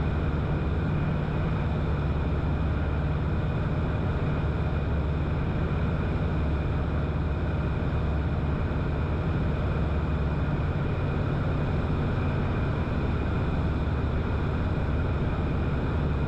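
Cessna 177RG Cardinal's four-cylinder Lycoming IO-360 engine and propeller droning steadily in cruise flight, heard inside the cabin.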